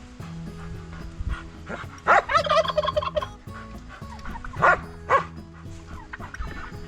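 Domestic tom turkey gobbling: one loud rattling gobble lasting about a second, starting about two seconds in, followed by two short loud calls about half a second apart.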